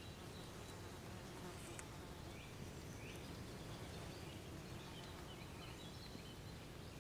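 Faint, steady buzzing of flying insects in woodland, with a few faint, short high calls scattered through it.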